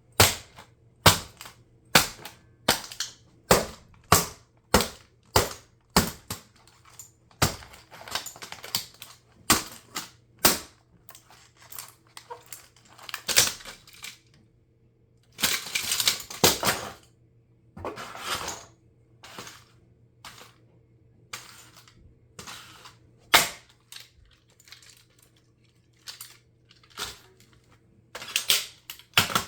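Plastic RC car being crushed under high heels: repeated sharp cracks about once a second, with longer grinding crunches of breaking plastic in the middle and sharp strikes again towards the end.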